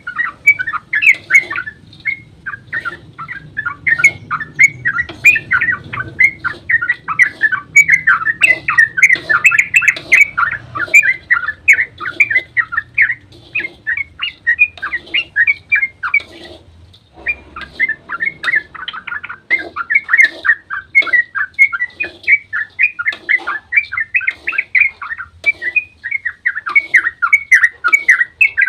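Yellow-vented bulbul (trucukan) singing a long, rapid run of loud chattering, bubbling notes with only a brief pause partway through. This is the excited 'ropel' song used as a lure to make other bulbuls answer.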